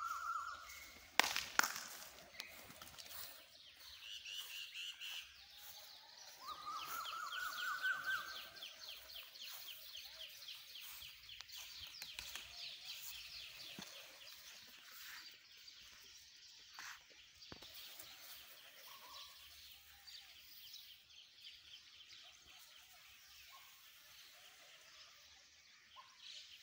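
Birds calling. A rising call comes about seven seconds in, and a fast, high chirping trill runs through the middle stretch, with scattered fainter calls after it. Two sharp knocks come about a second in.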